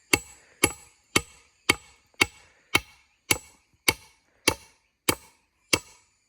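A tool strikes wood in a steady rhythm, about two blows a second, and each blow has a short metallic ring.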